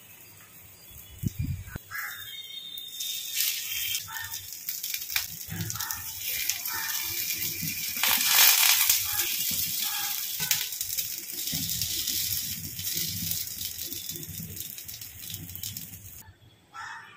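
Oil sizzling under paniyaram balls in a cast-iron paniyaram pan, a steady hiss that starts about three seconds in and cuts off near the end. Light ticks come through it as the balls are turned with a wooden toothpick.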